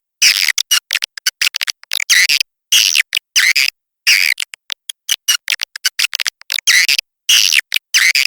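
Edible-nest swiftlet calls played as a nest-house lure track: short bursts of rapid high twittering chopped by sudden silences, with quick clicking chirps between the longer phrases.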